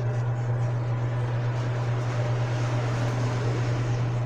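A steady low hum, unchanging, over faint background noise.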